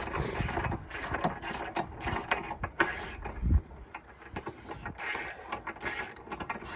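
Irregular metallic clicks, clanks and scraping from hand tools working a tractor tire's bead over the steel rim, with a heavier knock a little past the middle.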